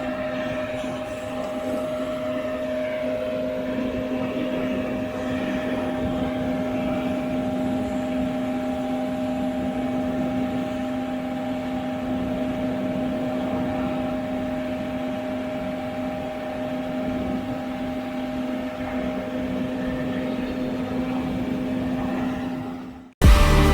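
Combine harvester running steadily while harvesting corn: a constant machine drone with a steady low hum and a higher hum. It cuts off abruptly near the end.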